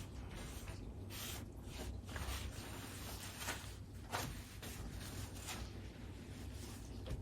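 Hands at work preparing food at a kitchen counter: a series of short scraping, rustling strokes, roughly one every half second to a second, over a low steady hum.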